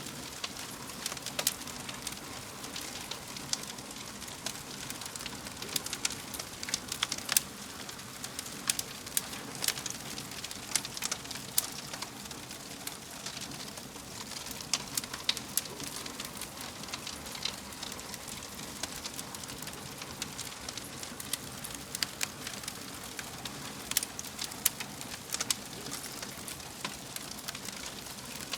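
Wood fire in a fireplace crackling: a steady hiss with irregular sharp pops and snaps, several a second at times.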